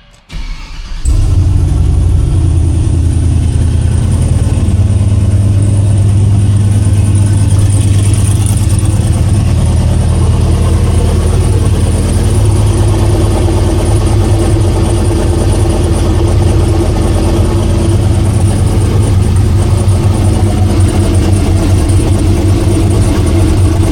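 Newly turbocharged Chevy Silverado engine starting: a brief crank, then it catches about a second in and idles steadily, with a steady high whine over the low engine note.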